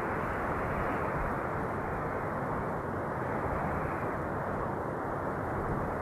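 Steady rushing wind, a dense even noise with no gusts or breaks, swelling and easing slowly.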